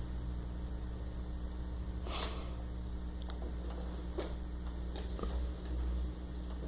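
Dachshund snorting and sniffing as it plays with a pillow, with a few short soft clicks and knocks, over a steady low hum.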